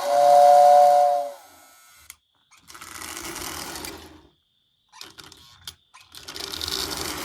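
Lionel toy train whistle blowing a steady two-note tone for about a second at the start. Then the 1946 Lionel 1666 locomotive's electric motor and gears whir in two short spells, separated by a pause.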